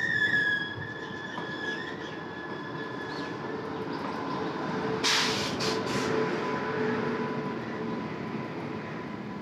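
Suburban local train running at the platform with a steady rumble of wheels on rail. A high squeal at the start fades within a couple of seconds, and a sharp hiss comes about five seconds in.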